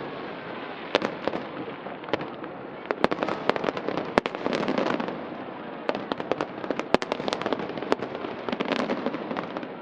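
Fireworks going off in a rapid, irregular string of sharp bangs and crackles.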